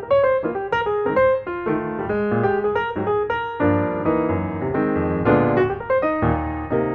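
Background piano music, a steady run of single notes over low bass chords.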